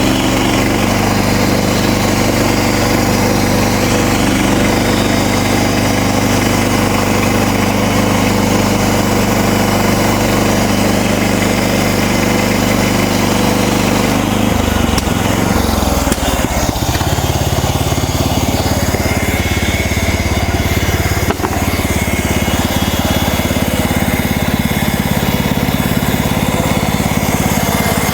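Gas engine of a MechMaxx portable bandsaw mill running steadily while the band blade saws through a cedar log. The engine note shifts about halfway through.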